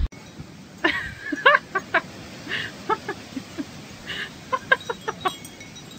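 Birds calling: a scattered series of short pitched calls, some bending up or down in pitch.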